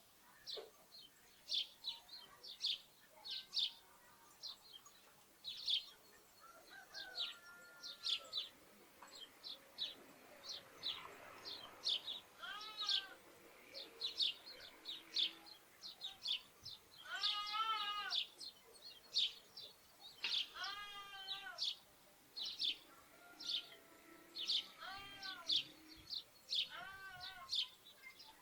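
Sparrows chirping throughout in many short, quick chirps, with lambs bleating now and then: about five quavering bleats, mostly in the second half.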